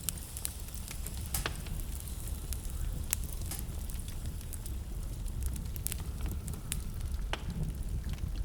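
Wood fire crackling in a fireplace, with sharp pops every second or so, over a steady low rumble of blizzard wind.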